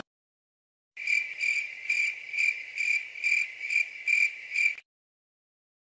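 Cricket chirping sound effect: a single high chirp repeated evenly, about two a second, nine times. It starts about a second in and stops a second before the end. This is the stock 'crickets' gag used for an awkward silence.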